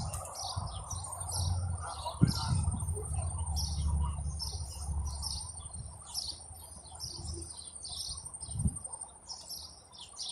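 Birds chirping over and over, several short calls a second, over a steady high-pitched whine. A low rumble sits underneath and fades out about halfway through.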